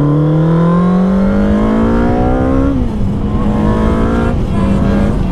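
1996 Suzuki Katana 600's inline-four engine accelerating: its pitch climbs steadily for nearly three seconds, drops at an upshift, then holds fairly steady with another brief dip near the end.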